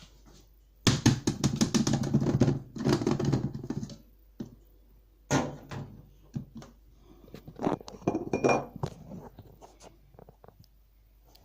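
Coffee-making gear being handled straight after grinding: a run of clattering knocks and clinks for about three seconds, a sharp knock about five seconds in, then scattered taps and clicks.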